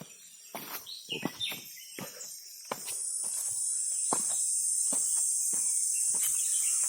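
Footsteps on a rocky path, roughly one step every half second to second. From about three seconds in, a steady high-pitched insect drone, crickets or cicadas, rises and grows louder; a brief bird chirp is heard early on.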